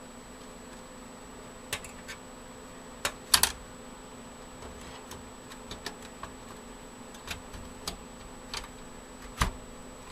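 Irregular sharp clicks and clacks of plastic and metal parts being handled as expansion cards and their cable are fitted into a desktop computer case, with a loud cluster about three and a half seconds in and a sharp knock near the end.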